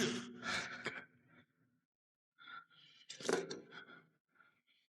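Soft breathy sighs and gasps from a person, a trailing sigh at first, then a second, louder cluster of breaths after a short pause, ending abruptly in silence.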